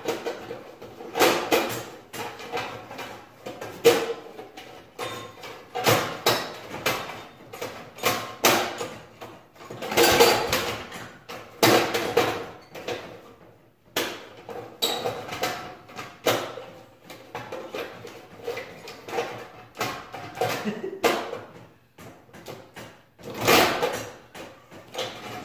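Recoil pull-start of a Briggs & Stratton 5500-watt portable generator being yanked repeatedly, a string of short rattling clatters with no engine turning over or firing. The owner puts it down to the starter dogs not throwing out.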